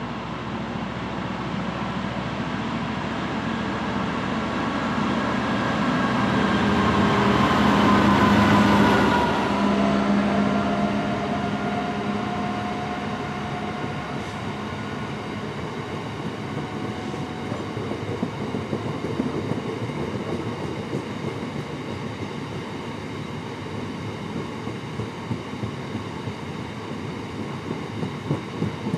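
A Class 66 diesel-electric locomotive's two-stroke V12 engine running as it approaches and passes, loudest about nine seconds in, its pitch dropping as it goes by. Then loaded gypsum wagons roll past with wheels clicking over rail joints, the rhythmic clatter growing near the end.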